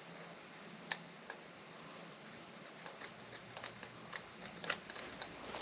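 Small parts of a click pen kit being handled and fitted together by hand: light, sharp clicks and taps, one about a second in and a quick run of them from about three seconds, over a faint steady high-pitched whine.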